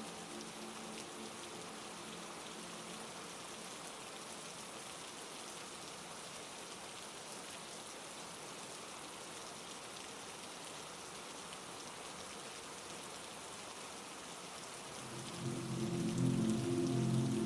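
Steady heavy rain falling. Low held musical tones fade out at the start, and a louder chord of low tones swells in over the rain near the end.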